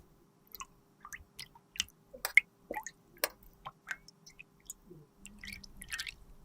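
A series of small, sharp, irregular clicks and soft wet squishes, about a dozen over a few seconds, with a faint steady hum beneath.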